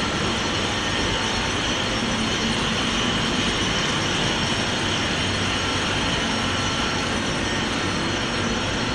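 Ship's engine room machinery running: a steady, even din of engines and auxiliary equipment with a few faint constant tones through it.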